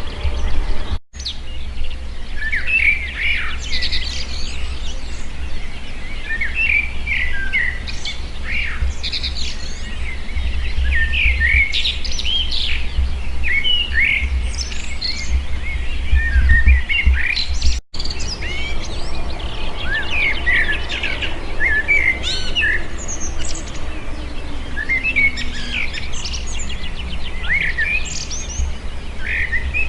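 Dawn chorus of several songbirds chirping and trilling at once, many overlapping short phrases, over a steady low rumble. The sound breaks off for an instant twice, about a second in and just before the middle.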